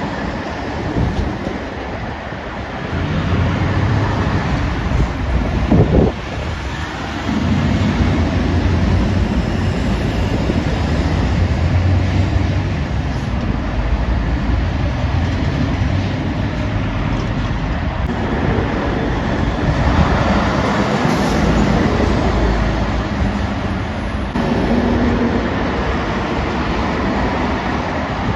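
Heavy trucks driving past on a main road: diesel engines and tyre noise swelling and fading as several vehicles go by in turn, with the engine pitch shifting from one passing truck to the next.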